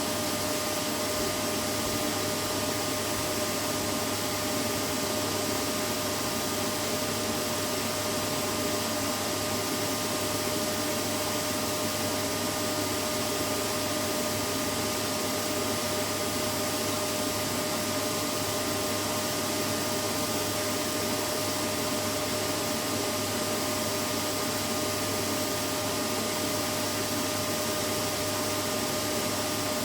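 Vacuum cleaner running steadily: a constant whooshing hum with a steady whine in it.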